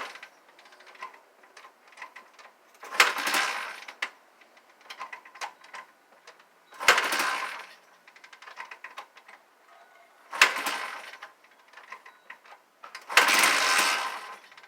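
An 80cc four-stroke dirt bike being kick-started over and over: four kicks, each a sharp clack followed by about a second of the engine turning over. It does not catch and keep running, as fits a bike that has sat unused in the cold.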